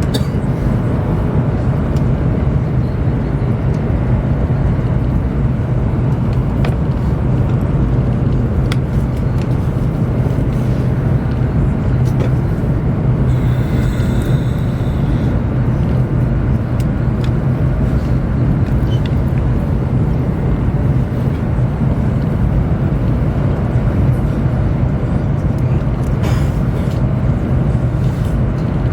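Steady low rumble and hum inside the cabin of a Chinese high-speed train running at speed, with a few faint ticks and a brief hiss about halfway through.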